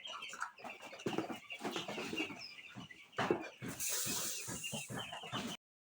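A flock of twelve-day-old chicks chirping and clucking, with scattered rustling and knocks among them. The sound cuts off suddenly near the end.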